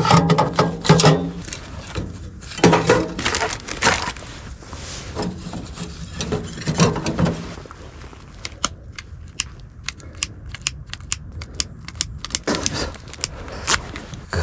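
Objects being handled, with rustling and crinkling, then a run of many quick small clicks and knocks in the second half.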